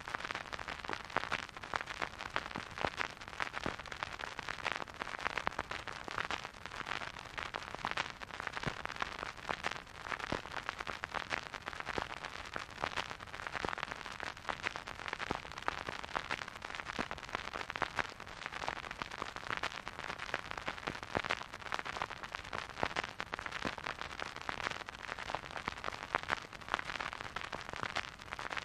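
Vinyl record surface noise from a turntable: a steady hiss thick with small random crackles and pops, with no music.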